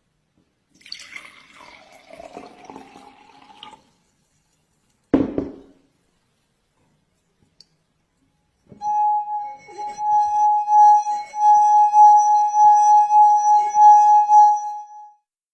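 A drinking glass made to sing by a wet finger circling its rim: one steady high ringing tone with overtones for about six seconds, swelling and dipping with each pass of the finger. Before it comes a stretch of liquid being poured into the glass and a single sharp knock.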